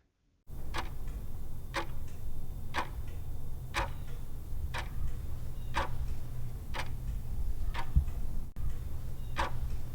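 Clock-ticking sound effect, about one tick a second, over a low steady hum. It serves as a countdown timer while a quiz question waits for its answer.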